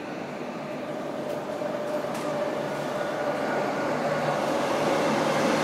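Renfe Rodalies electric commuter train approaching along the platform of an underground station, its rumble growing steadily louder, with a steady whine that sinks slightly in pitch.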